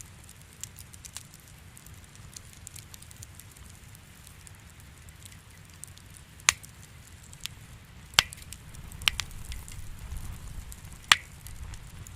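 Fireplace wood fire crackling: a steady patter of faint ticks over a low rumble, broken by four sharp, loud pops in the second half.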